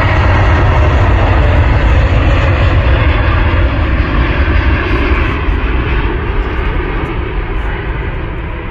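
Large airplane passing close overhead on take-off: loud engine noise with a heavy low rumble that starts to fade about five seconds in.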